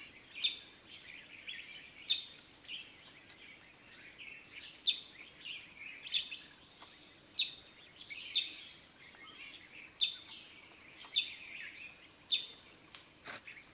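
Forest birds calling: a sharp, high call that drops quickly in pitch, repeated about every second or so, over soft continuous twittering. A single click near the end.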